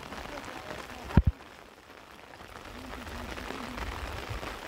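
Steady rain falling, with two dull thumps in quick succession about a second in.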